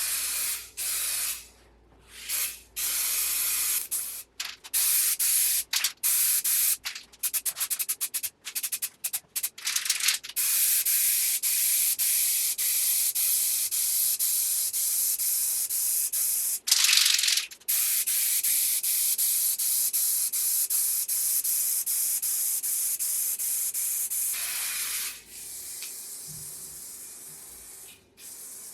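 Pressurised spray hissing in many short bursts for about ten seconds, then one long steady spray with a brief louder burst partway through. It drops to a quieter hiss near the end.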